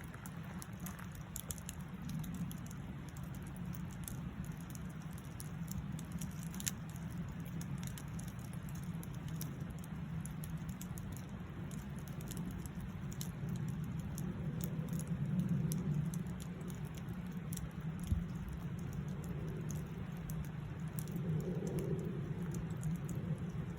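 Campfire crackling, with small snaps and pops scattered irregularly over a steady low background noise.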